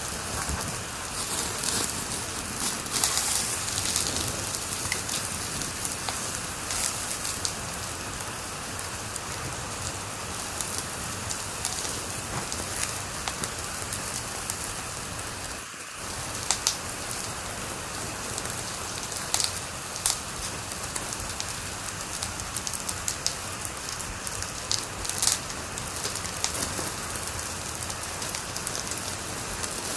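Wood fire crackling in a fireplace: a steady hiss with frequent sharp pops and snaps scattered irregularly, and a brief drop in the sound about halfway through.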